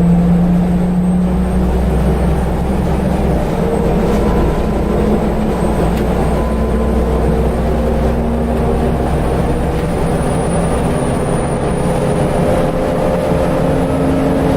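Scania L94UB single-deck bus heard from on board, its engine running under load with the whine of the ZF automatic gearbox over a steady rumble. The whine climbs slowly in pitch as the bus gathers speed.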